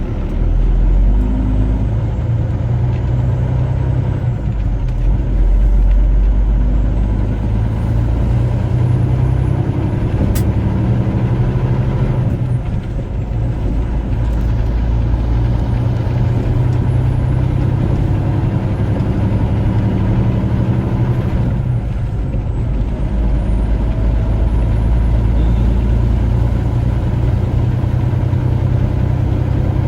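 Semi truck's diesel engine running under load as the truck pulls away, a steady low drone that dips briefly twice, about twelve and twenty-two seconds in. A single sharp click sounds about ten seconds in.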